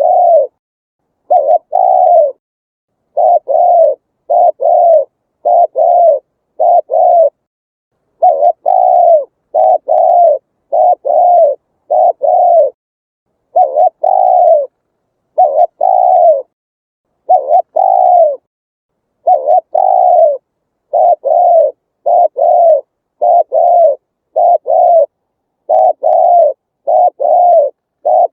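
Spotted dove cooing: short coos that fall slightly in pitch, given in quick groups of two to four, with short pauses between the groups.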